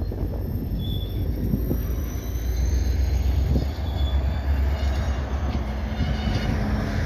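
Freight train rolling slowly: a heavy low rumble from the locomotive and cars, with two short high wheel squeals and a faint rising whine over it.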